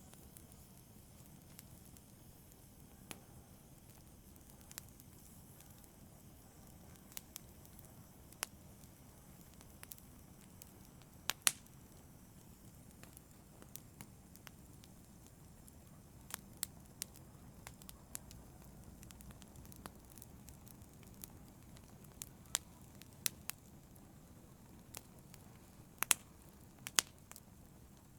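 Wood fire crackling in a fireplace: irregular sharp pops and snaps over a low, steady rumble of flames. The loudest pops come about a third of the way in and again near the end.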